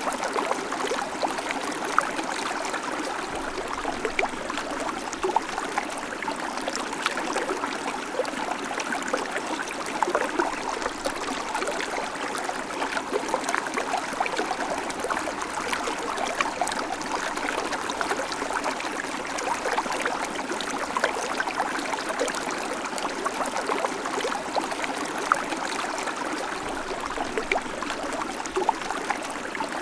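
Babbling creek: water running and trickling over stones, a steady rush with many small splashes and gurgles.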